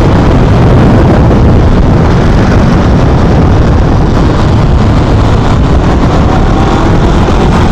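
Honda motorcycle riding at a steady pace: loud, steady wind rush on the microphone with the engine running underneath.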